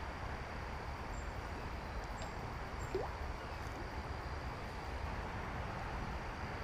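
Steady outdoor background noise with a low rumble underneath and a faint high steady tone, broken by a few brief, faint high chirps in the first few seconds.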